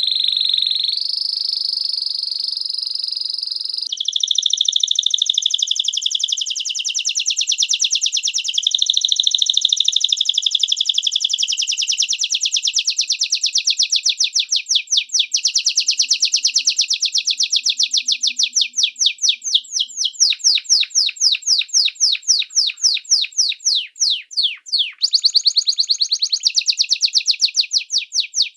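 A small songbird singing loudly and without pause: a held high whistle for the first few seconds, then long, fast trills of repeated notes that loosen into separate notes, about four a second, in the second half.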